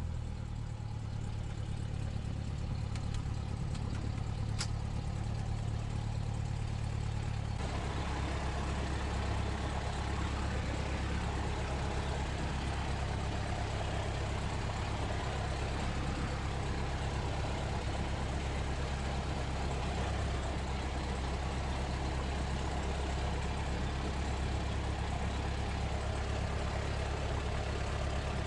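Cessna 172S's Lycoming IO-360 four-cylinder engine idling steadily just after start-up, while it warms up and oil pressure comes up. About eight seconds in, its sound turns fuller and noisier, with a faint click shortly before.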